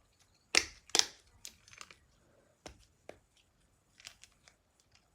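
Simple dimple fidget toys having their buttons pushed, popping with a string of short sharp clicks at irregular intervals; the two loudest come about half a second and a second in.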